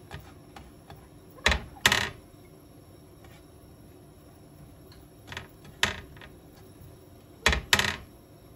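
Three pairs of sharp knocks and clicks, like objects being set down or handled, against a faint steady background.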